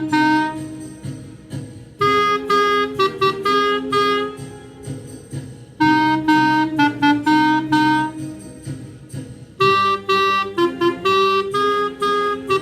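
Clarinet playing a blues melody over a band accompaniment with low held chords, in three short phrases of quick notes, each followed by a held chord.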